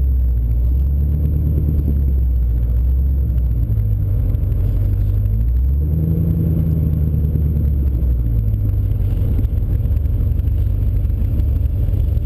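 Car engine running at low revs, heard from inside the cabin, its low hum shifting in pitch a few times as the throttle changes.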